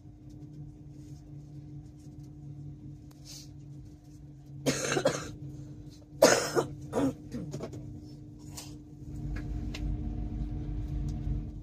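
Steady hum and low rumble inside the carriage of a moving Class 800 train, with one steady tone running through it. A person coughs loudly twice, about five and six seconds in. The rumble grows louder near the end.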